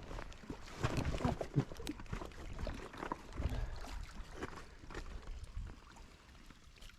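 Water splashing and dripping, with scattered knocks and handling rustles, as a hooked channel catfish is brought in. It is busiest in the first half and dies down toward the end.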